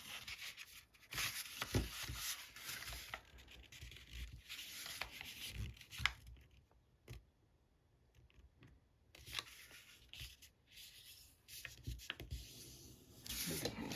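Paper being folded and creased by hand: scattered, faint rustling and rubbing of the sheet, with a quieter stretch in the middle.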